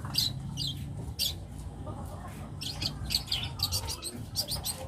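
Young long-tailed shrike (cendet) singing a rapid series of short, high notes. The song is full of copied calls of other birds. It thins out for about a second in the middle, then comes back denser.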